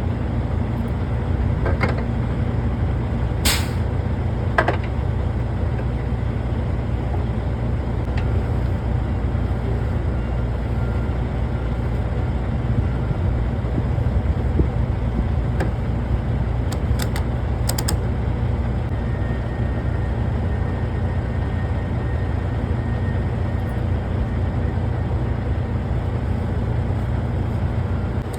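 Semi truck's diesel engine idling steadily, with a sharp metallic clank a few seconds in and a few light clicks later.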